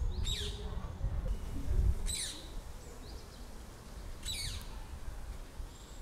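A bird calling outdoors among trees: three sharp calls that fall steeply in pitch, about two seconds apart, with a fainter call between them. A low rumble runs underneath.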